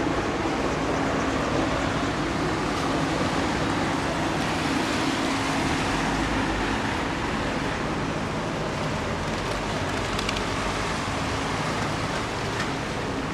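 Steady city traffic noise on a rain-wet street: vehicles running and passing, with a steady low hum throughout.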